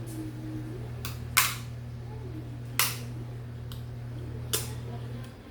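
Mud crab shell being cracked apart while eating: several sharp, separate cracks a second or so apart, over a steady low hum that stops near the end.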